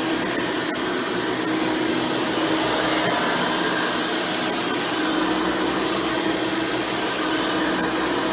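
Hoover Elite Supreme upright vacuum, with a single-row stiff-bristle brush roll and a 20-blade fan motor, running steadily while cleaning, its whine with a hum that fades and comes back every few seconds.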